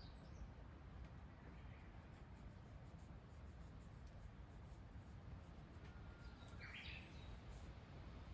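Near silence with low steady background noise and two faint bird calls, a short chirp at the start and a brief note followed by a chirp near the end.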